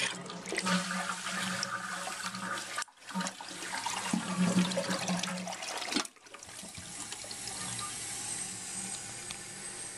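Briggs Vacuity vacuum-assisted toilet flushing with a rush of water. About six seconds in it settles into a steadier hiss as the tank's old Fluidmaster 400A fill valve refills it.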